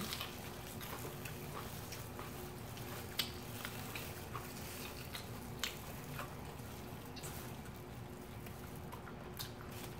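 Two people chewing fried chicken: faint, scattered wet smacks and clicks of chewing over a low steady hum.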